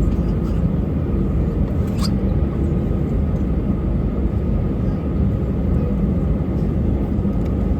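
Steady engine and air noise inside the cabin of an Airbus A320, heavy in the low end with a faint steady whine above it. A single click sounds about two seconds in.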